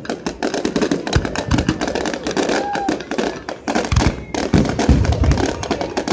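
Fireworks going off in rapid succession: dense crackling with heavier bangs scattered through it.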